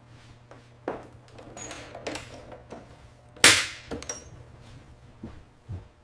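Scattered knocks and clunks as a cover panel is fitted and secured, the loudest about three and a half seconds in with a brief metallic ring just after it, over a low steady hum.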